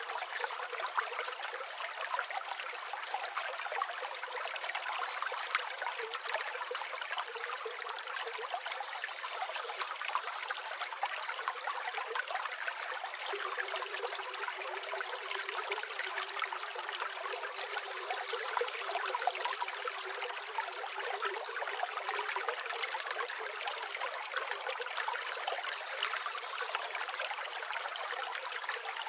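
Flowing river water, a steady babbling rush with no low rumble underneath.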